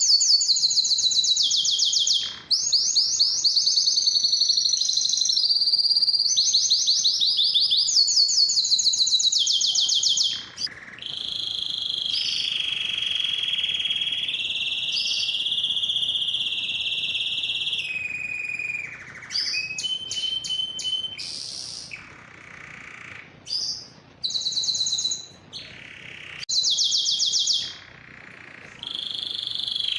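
Male domestic canary singing: fast high trilled phrases, then a long steady roll at a lower pitch about a third of the way in, then shorter phrases broken by brief pauses.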